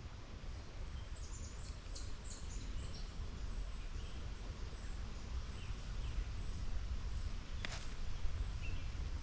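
A small bird gives a quick series of high, thin chirps about a second in, with a few fainter calls later, over a steady low rumble. There is one sharp click near the end.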